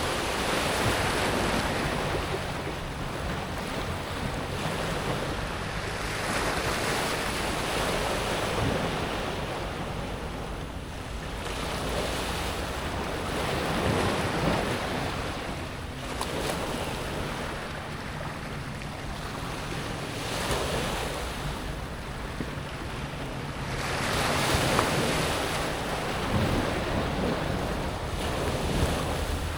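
Small waves breaking and washing back over a pebble beach, the water hissing through the stones. The surf swells and fades every few seconds.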